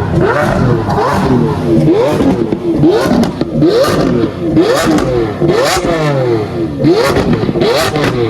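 Sports car engines revving hard again and again, the pitch climbing and falling back many times, with several engines overlapping.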